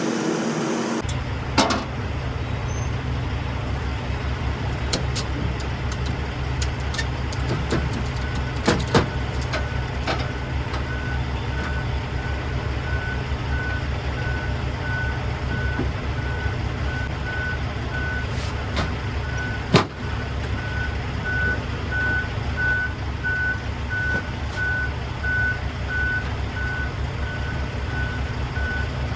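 A vehicle engine idles with a steady low rumble. From about eight seconds in, a reversing alarm beeps repeatedly at a steady pitch, roughly one and a half beeps a second. Scattered short clicks and knocks are heard over it.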